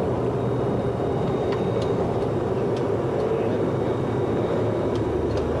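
Boeing 737-200's Pratt & Whitney JT8D turbofans at takeoff power with airflow noise, heard inside the cockpit during the initial climb just after rotation: a steady, even rush, with a few faint clicks.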